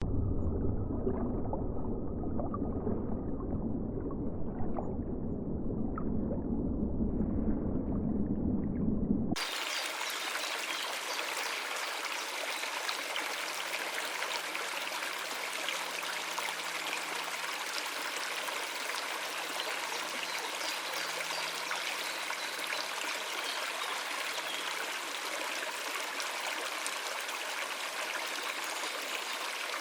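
Running water, a steady rush like a stream. For the first nine seconds or so it is a deep, muffled rumble, then it cuts abruptly to a bright, hissing flow.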